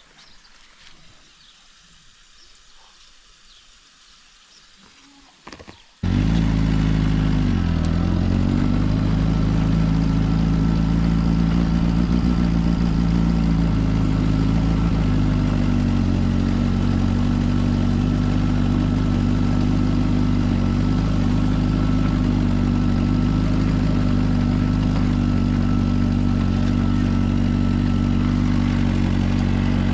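Suzuki GSR 400's inline-four engine with a Yoshimura exhaust, starting about six seconds in after a few quiet seconds. The revs flare and settle briefly, then it idles steadily.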